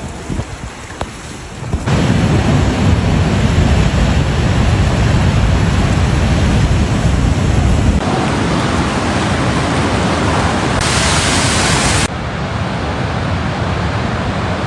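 Steady rushing noise of stormy weather, rain and wind, that changes abruptly several times as short clips are cut together.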